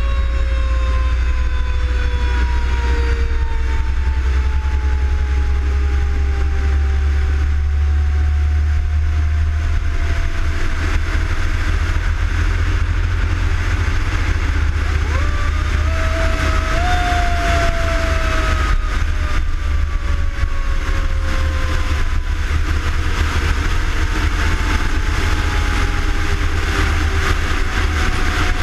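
Fire engine's mechanical siren winding down in a long, slow falling wail, spun back up briefly about halfway through and then coasting down again, over the steady low rumble of the apparatus's engine and road noise.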